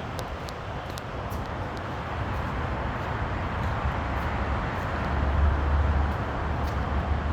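Garbage truck engine running, a steady heavy rumble that grows louder about five seconds in.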